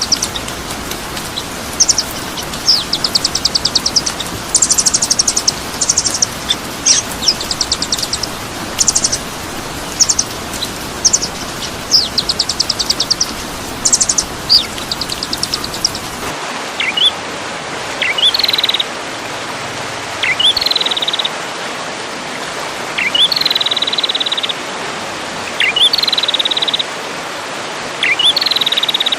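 Songbird song from a masteran compilation: first a run of rapid, high trills and chirps over a steady hiss, then, after a cut about 16 seconds in, a different bird repeating one short phrase, a quick rising note followed by a buzzy trill, about every two and a half seconds.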